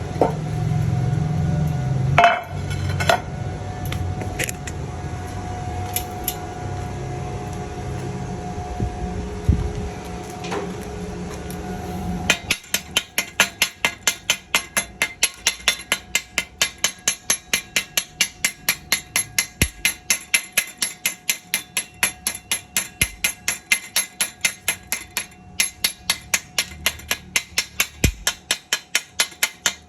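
A steady low hum, then about twelve seconds in a fast, very regular series of sharp metallic taps begins, about three to four a second.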